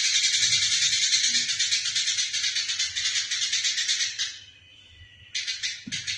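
Eurasian tree sparrows chattering in a fast, dense run of high chirps: the agitated calls of sparrows fighting. The chatter breaks off about four seconds in and comes back briefly near the end.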